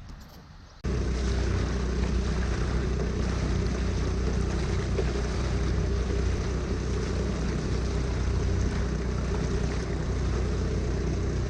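Small engine fitted to a motorized kayak, running steadily at constant speed with a low, even hum; it starts abruptly about a second in.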